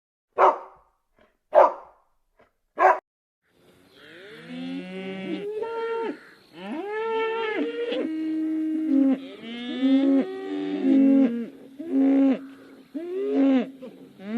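Three short dog barks about a second apart, then cattle mooing from about four seconds in: a run of long calls, several overlapping one another.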